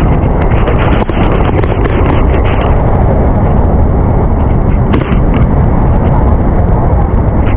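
Loud, steady rush of a fast, strong stream current close to the microphone, heaviest in the low end.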